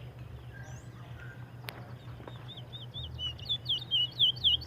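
A songbird singing a fast run of repeated high chirps, about four or five a second, which starts about three seconds in and grows louder. A single sharp click comes a little before halfway, over a steady low hum.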